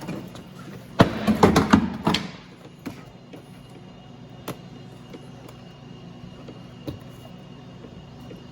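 Plastic car door trim panel being pulled loose and handled: a rapid run of loud clicks and rattles lasting about a second, then a few single clicks.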